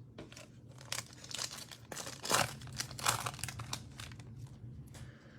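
Plastic wrapper of a Prizm Draft Picks trading-card pack being torn open and crinkled in the hands, a run of irregular crackles for a few seconds.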